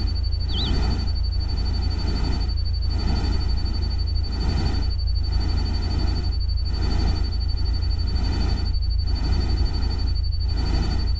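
Nature-sound bed of rain and stream noise over a steady low rumble, swelling and dipping every second or two, with a constant thin high whistling tone. A short bird-like chirp comes about half a second in.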